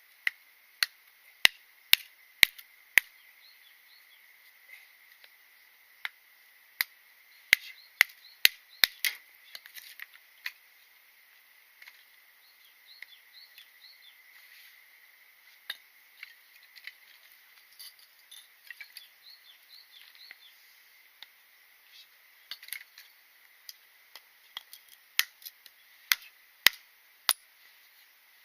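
Wood being worked for a campfire: sharp, irregular cracks and knocks, several in quick succession at times and sparser in between.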